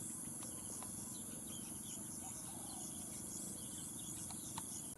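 Forest ambience: a steady, high-pitched insect drone with scattered faint bird chirps over a low rumbling background noise. It all cuts off suddenly at the end.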